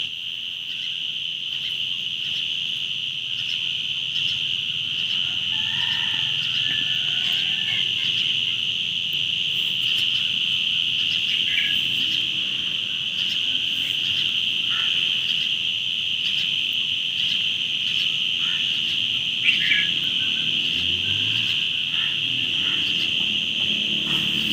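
Steady, high-pitched insect chorus droning without a break, with a few short chirps scattered through it and a brief louder knock late on.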